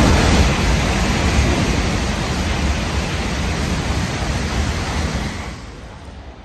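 N700-series Shinkansen bullet train passing at speed: a loud, steady rush of air and wheels on rail that fades away about five and a half seconds in.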